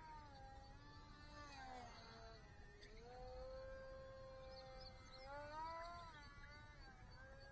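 Faint whine of a small RC plane's 10000KV brushless motor and 3-inch propeller in flight. Its pitch falls about two seconds in, holds steady, then rises and dips again a little after five seconds.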